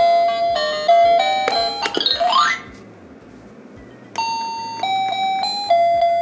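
Electronic toy melody in plain beeping chime tones from a children's musical busy-board push toy, broken about two seconds in by a rising swoop sound effect; after a short lull the tune starts again around four seconds in.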